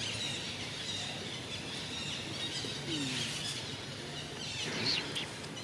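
High-pitched animal squeaks and chirps over outdoor background noise, the loudest a quick cluster of rising squeaks about five seconds in.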